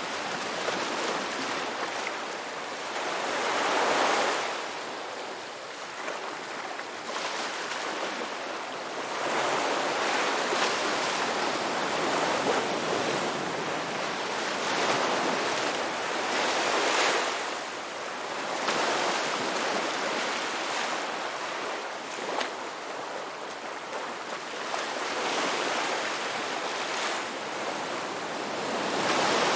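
Ocean waves breaking and washing on a shore, a steady surf with swells that rise and fall every few seconds.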